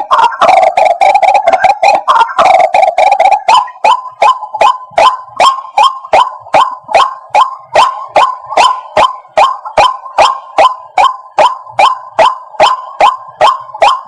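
White-breasted waterhen calling. It opens with a few seconds of dense, overlapping croaking calls, then settles into a monotonous series of short, repeated 'kwak' notes, about two a second.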